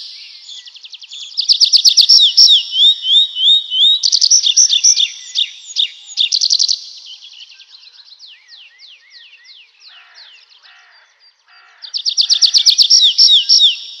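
Songbirds singing: loud, fast trills of rapidly repeated chirps, which drop away after about seven seconds to quieter falling notes before the loud trilling returns near the end.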